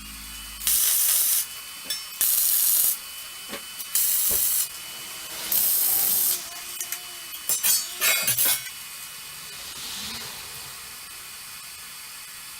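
Welding arc struck in four short bursts of about half a second each, each a loud hissing burst, like tack welds. A few sharp clatters of metal follow.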